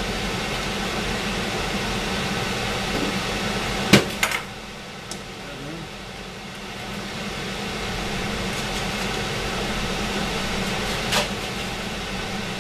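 Steady whooshing hum of a kitchen appliance's fan. Two sharp clicks about four seconds in, after which the hum is weaker for a few seconds before it comes back; another click near the end.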